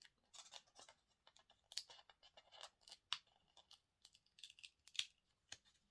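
Faint handling noises: the crinkle, rustle and light clicking of thin sheets and their packaging being turned over and fingered, a string of short irregular scratches and ticks.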